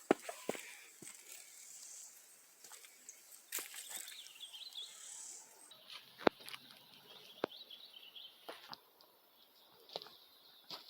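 Footsteps on forest-floor litter: scattered snaps and crackles, the sharpest about six seconds in, with faint bird chirps about four seconds in and again a little later.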